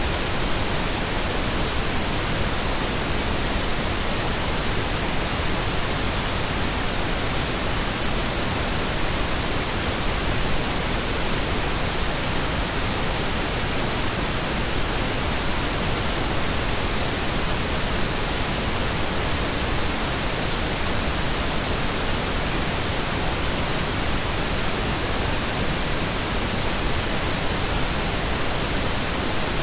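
Steady, unchanging pink noise: an even hiss across all pitches that never varies.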